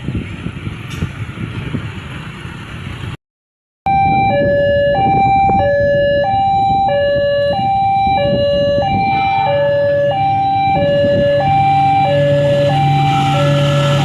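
Steady background noise, then after a brief cut an Indonesian railway level-crossing warning alarm sounding: an electronic two-tone signal alternating high and low about once a second, warning that a train is approaching. From about two-thirds of the way in, a low steady hum joins it.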